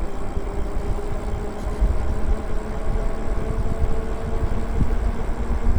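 Riding noise from an e-bike moving along a road: wind rumbling on the microphone and tyre noise, with a steady electric motor hum that fades about five seconds in.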